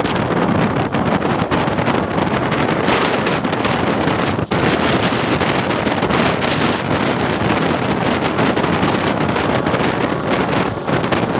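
Wind buffeting the microphone over the steady running noise of a moving ICF passenger coach.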